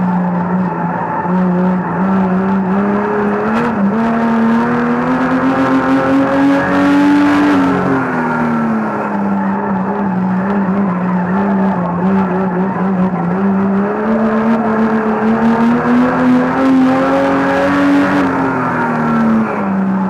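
Banger race car's engine heard from inside its cabin, running hard under load: the revs climb slowly along each straight and drop back into each turn, twice over.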